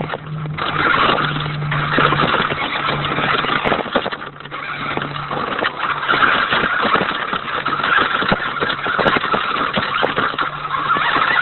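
Radio-controlled toy Hummer truck driving over rough ground: its motor runs with a steady whine, and the wheels and body make frequent clicks and rattles. The sound eases briefly about four seconds in.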